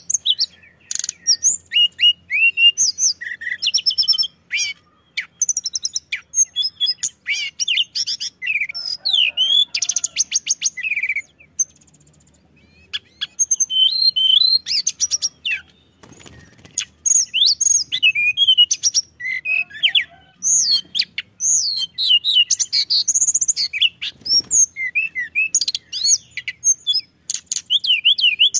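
Tledekan gunung songbird singing a fast, busy run of high chirps, sweeping whistles and trills, with a short pause about halfway through.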